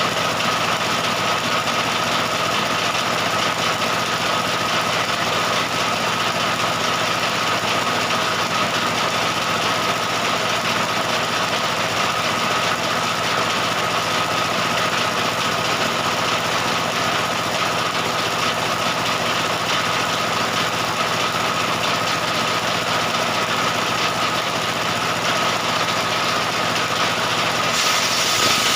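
Stihl 070 two-stroke chainsaw running steadily at high revs, ripping lengthwise through a jackfruit-wood beam. The tone shifts slightly near the end.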